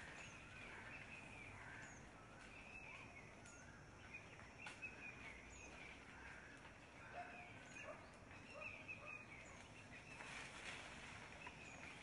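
Faint outdoor ambience with small birds chirping over and over, and a few light clicks.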